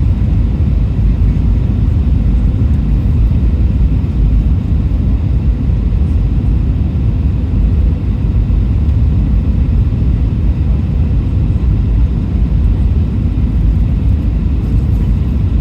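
Airbus A320 cabin noise: a loud, steady low rumble of engines and airflow heard from inside the cabin, with no changes or sudden sounds.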